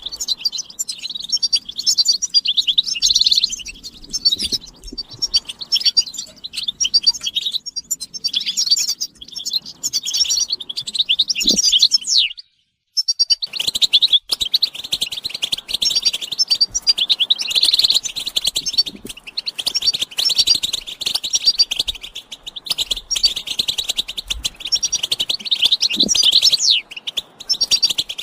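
European goldfinches twittering and singing: a dense, unbroken stream of rapid high chirps and trills. The sound cuts out completely for about half a second a little past twelve seconds in, then resumes.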